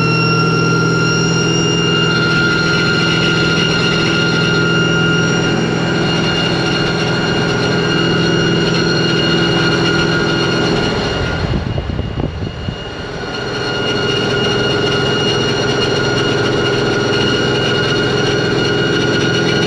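Supercharged Pontiac GTO V8 driving at a steady speed: a steady engine note with a high whine held over it. The sound eases off briefly about twelve seconds in, then picks back up.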